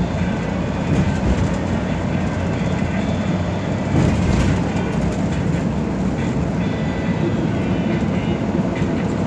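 Cabin noise inside a moving express bus: a steady rumble of engine and road noise, with a brief louder surge about four seconds in.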